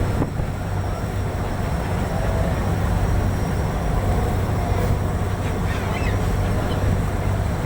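Steady low rumble of a boat's engine with wind and water noise, and a few faint seabird calls about five to six seconds in.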